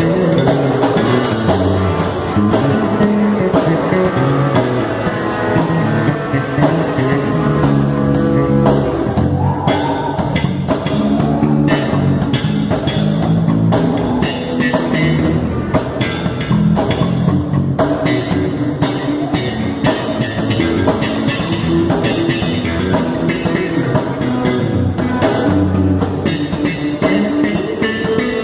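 Rock music with guitar and drum kit playing continuously; the cymbals and drums grow busier about ten seconds in.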